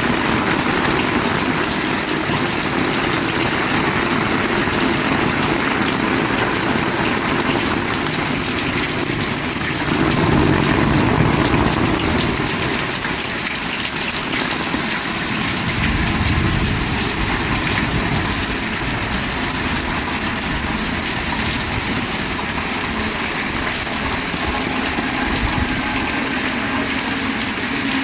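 Heavy rain falling steadily, a dense even hiss, with deep low rumbles swelling up about ten seconds in and again around sixteen seconds in.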